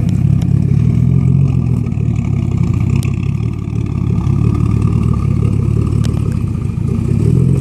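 Nissan Skyline R32 GTS-T's turbocharged straight-six idling steadily after warm-up, the idle a little jumpy.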